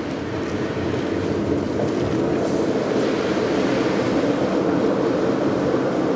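Car driving on a wet road, heard from inside the cabin: steady tyre and road noise on the wet surface, growing a little louder.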